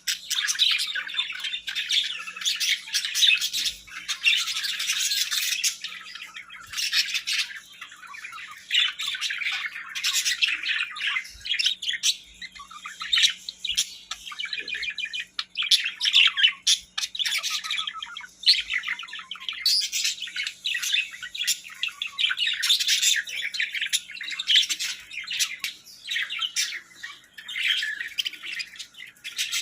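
Birds chirping and squawking in a busy, almost unbroken stream of short, rapid calls, with brief lulls here and there.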